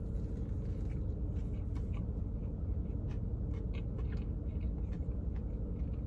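Chewing a crispy fried chicken sandwich: many small scattered crunches of the breading, over a steady low hum inside a car.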